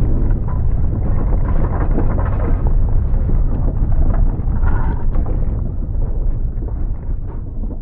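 Earthquake shaking: a heavy, continuous rumble with dense rattling and clattering of shaken objects, easing off near the end.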